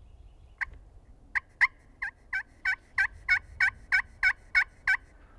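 A run of about a dozen turkey yelps, each note breaking from high to low: a single one, then a pair, then an even series of about three a second that stops suddenly.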